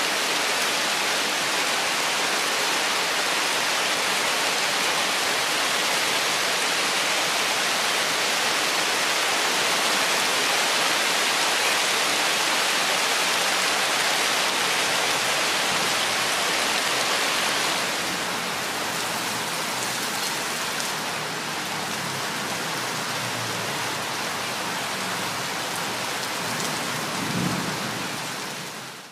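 Steady, dense rainfall on forest foliage: an even hiss of many drops. It eases slightly about two-thirds of the way through, as a low rumble comes in under it, with a brief low thump near the end. The rain then fades out quickly at the very end.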